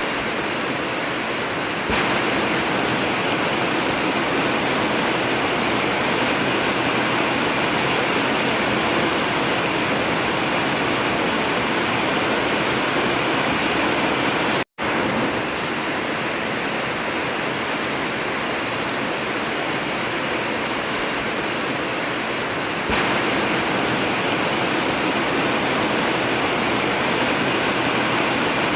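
Heavy rain falling steadily on an old tin (corrugated zinc) roof, an even dense hiss of drops. It gets a little louder about 2 s in and again near the end, and cuts out for an instant about halfway through.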